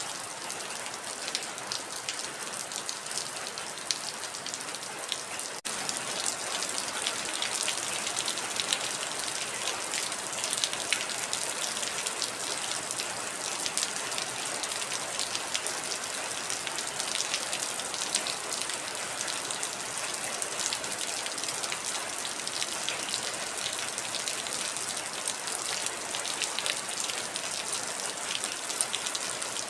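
Heavy rain falling steadily: a dense hiss with many individual drop ticks. There is a brief break about six seconds in, after which it carries on slightly louder.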